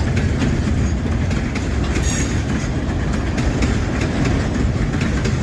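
Empty freight train wagons rolling past, their wheels clacking over the rail joints in a steady stream over a continuous rumble, with a brief high squeal about two seconds in.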